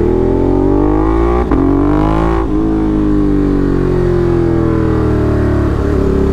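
Ducati Monster's V-twin through an aftermarket SC Project exhaust, accelerating with its note climbing, broken by upshifts about one and a half and two and a half seconds in, then running steadily with the pitch easing slowly down.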